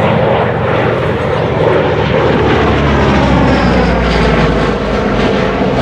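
Airplane engine running loud and steady as the aircraft flies past, its tone shifting in slow sweeps as it goes by.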